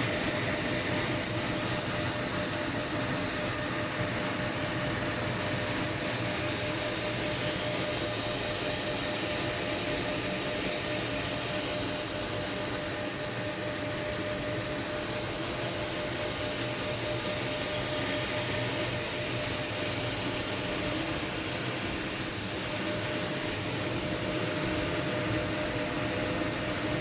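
Airbus A330 jet aircraft: a steady, unchanging noise of engines and rushing air with a faint constant whine.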